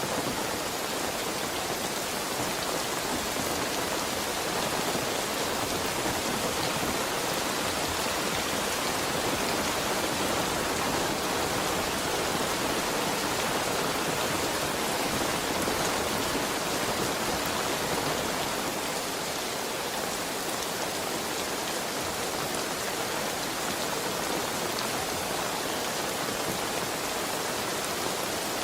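Heavy rain falling steadily, an even hiss of drops on a surface with no break or change.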